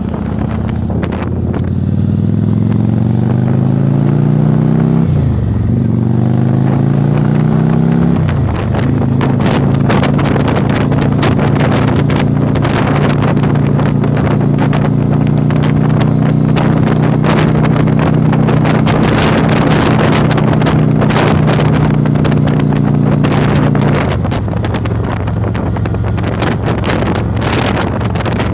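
Yamaha Virago 1100's V-twin engine accelerating in the opening seconds, its pitch rising and dropping back at two upshifts, then running at a steady cruise before the throttle eases off near the end. Heavy wind buffeting on the microphone throughout.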